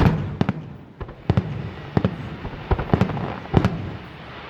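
Fireworks going off: a run of sharp bangs and booms, some in quick clusters, each with a rolling echo.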